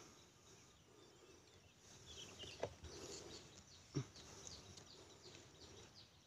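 Quiet outdoor background with faint, scattered bird chirps and two short clicks, about two and a half and four seconds in.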